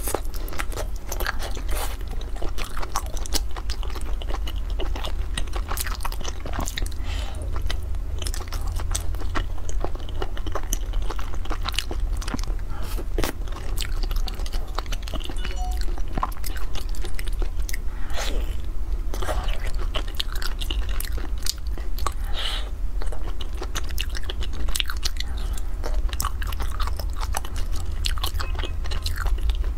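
Close-miked chewing and biting of soft, sticky pan-fried food: a steady run of wet, clicking mouth sounds, with now and then a fork or chopsticks scraping the ceramic bowl. A steady low hum lies underneath.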